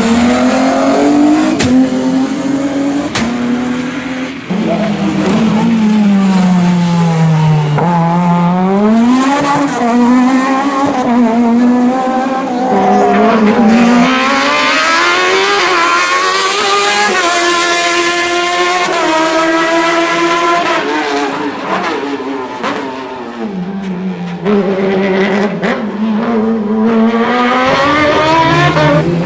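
Racing car engine at full throttle, its revs climbing and dropping again and again as the car accelerates, shifts gear and lifts off for corners.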